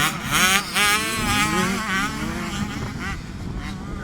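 Kids' motocross bikes revving, engine pitch rising and falling quickly several times, then settling into a steadier, quieter drone in the second half.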